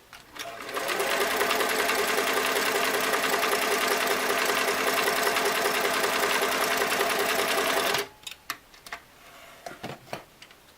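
Singer Model 337 sewing machine sewing a zigzag test stitch at a steady speed, picking up about half a second in and stopping abruptly about eight seconds in. A few short clicks of the machine being handled follow.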